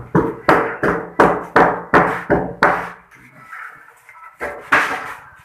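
Hammer blows, most likely driving nails: a quick run of about eight strikes, roughly three a second, then one more strike near the end.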